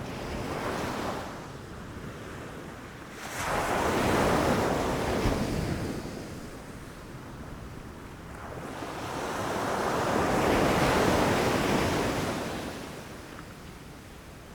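Ocean waves crashing on the shore and washing back. A small surge comes first, then a wave breaks suddenly a few seconds in and fades, and a second, slower swell builds past the middle and dies away near the end.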